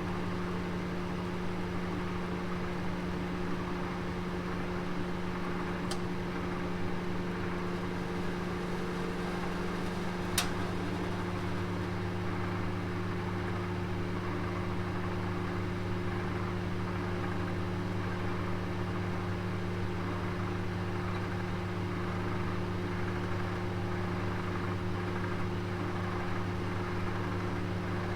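Oven running with a roast inside, giving a steady low hum. There is a single sharp tick about ten seconds in.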